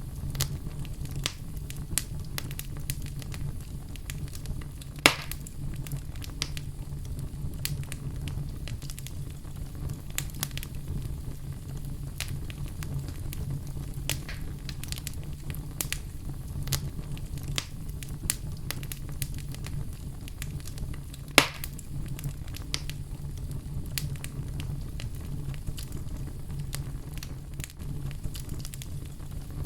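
Wood fire burning in a fireplace, crackling steadily over a low rumble of flame, with two loud pops about five seconds in and again near twenty-one seconds.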